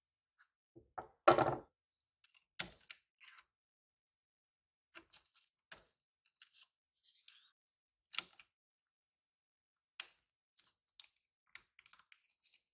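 Scattered clicks, taps and knocks of small hard objects being handled, with one louder thump about a second in and a few sharp clicks after it.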